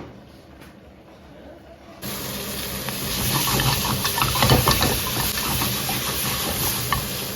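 Merguez sausages frying in a hot pan: a steady sizzle with many small spitting crackles, starting abruptly about two seconds in.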